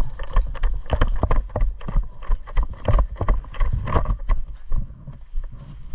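Irregular knocks and thumps of a player moving fast with a body-worn camera: footfalls and gear jostling, with wind buffeting the microphone.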